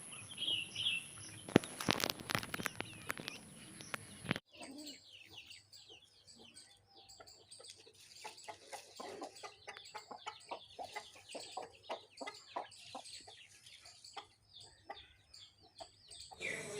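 Aseel chickens clucking in many short, quick notes. The background changes abruptly about four seconds in, where the video cuts.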